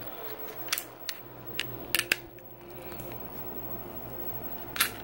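Sharp metallic clicks and clacks of a compact pistol, a Smith & Wesson M&P Shield, being handled and cleared. A handful come in the first two seconds and another near the end.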